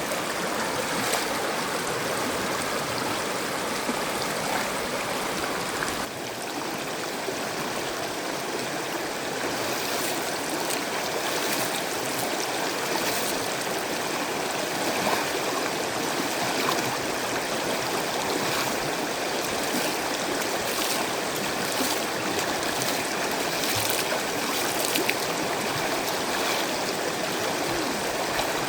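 Stream water flowing, a steady rush that shifts slightly in character about six seconds in.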